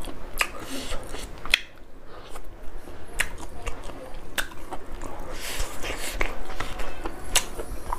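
Close-miked chewing of a mouthful of rice and pork curry, with irregular wet mouth smacks and clicks about once or twice a second.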